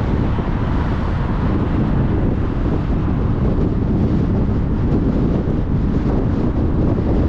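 Steady road noise of a car travelling at motorway speed: an even tyre and wind rush over a low rumble, unchanging in level.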